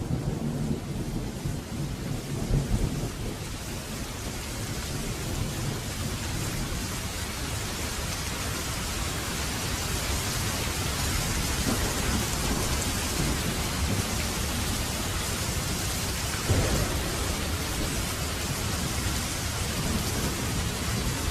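Steady heavy rain, with thunder rumbling low underneath, strongest in the first few seconds and again briefly about sixteen seconds in.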